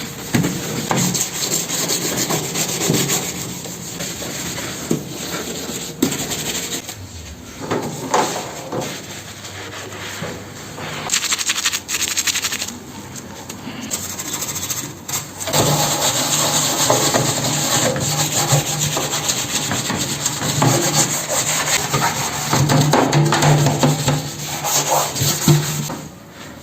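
Scrubbing on a microwave oven's surfaces: a continuous rough rubbing with many short strokes. It grows louder about halfway through, joined by a low steady hum.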